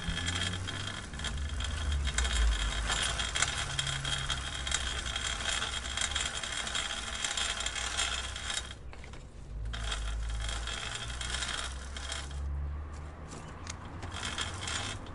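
Bicycle chain and gears clicking rapidly over a low rumble. The clicking drops away briefly about nine seconds in and thins out again near the end.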